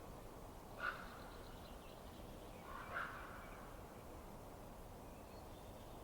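Two short bird calls about two seconds apart, the first about a second in, over a faint steady hiss.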